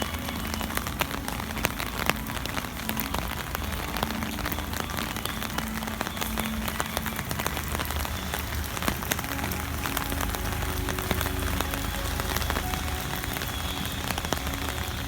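Steady rain falling, with many sharp drop ticks over an even hiss and a low rumble underneath.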